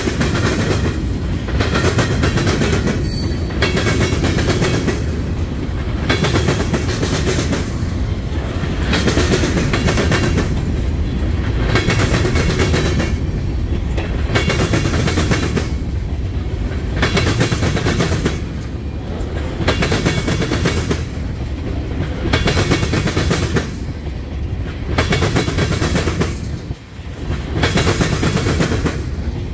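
Freight train tank cars and covered hoppers rolling past close by with a steady low rumble. Their wheels clack over the rail joints in a regular rhythm of about one clack a second.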